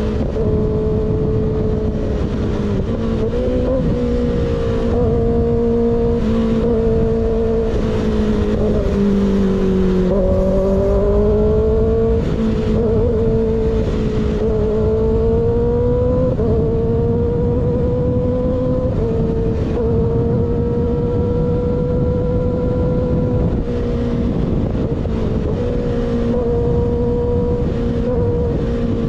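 Sport motorcycle with an unbaffled M4 GP19 slip-on exhaust held at high, fairly steady revs under way, its pitch easing down and rising again now and then, over heavy wind rush.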